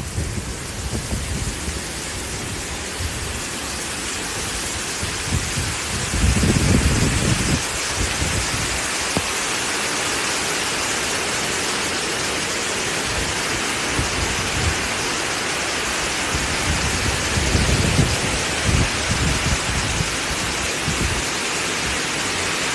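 Torrential storm rain pouring down in a dense, steady hiss, with a low rumble swelling up twice.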